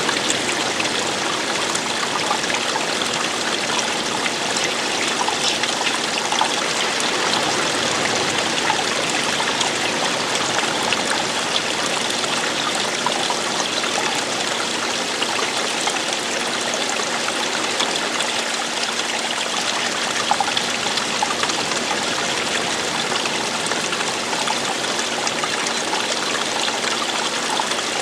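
Running water falling and splashing, a steady, even rush with small trickles in it.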